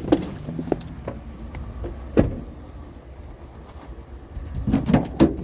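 A vehicle's engine idling with a steady low hum, with a few sharp knocks and clicks over it; the loudest knock comes about two seconds in, and a cluster comes near the end.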